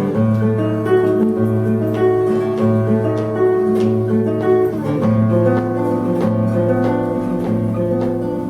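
Contreras studio model M-1 acoustic guitar played solo in an instrumental passage: plucked notes ringing over a repeated low bass note.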